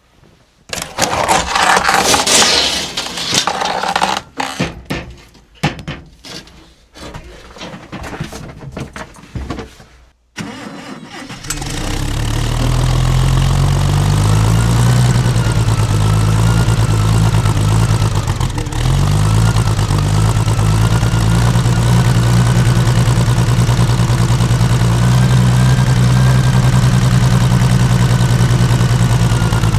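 Irregular rustling and knocking for about ten seconds, then the loader's engine catches on a cold start and settles into a steady idle.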